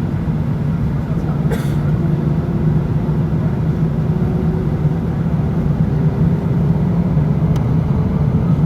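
Airbus A319 jet engines heard from inside the cabin: a steady low rumble with a whine that slowly rises in pitch.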